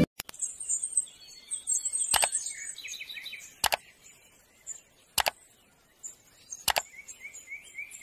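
High, thin bird chirps repeating, with five sharp mouse-click sounds about every one and a half seconds from an animated subscribe-button cursor.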